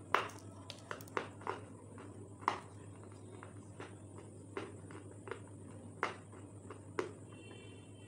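Close-up chewing of crispy fried chicken lollipop: scattered sharp crunches and wet mouth clicks, about one a second, the loudest just after the start and about two and a half seconds in, over a steady low hum.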